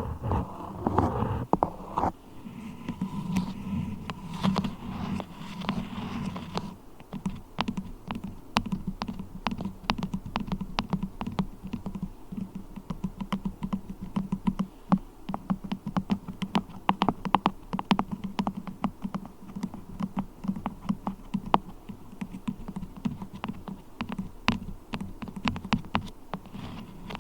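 Fingers working a lump of beeswax close to the microphone: soft rubbing and squishing for the first few seconds, then a fast, irregular run of small clicking taps.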